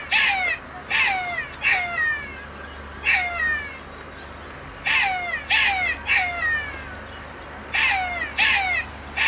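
Black-backed jackal calling: a series of short, high yelps, each starting harsh and sliding down in pitch, coming singly or in twos and threes with short pauses between the groups.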